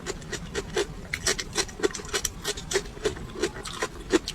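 Close-miked chewing of raw chili peppers: crisp, irregular crunches, several a second, with wet mouth sounds.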